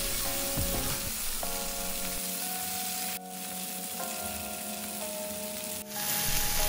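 Flour-coated stuffed chicken breasts sizzling in hot olive oil in a frying pan, being fried until golden. The sizzle dips briefly about three seconds in and is louder near the end.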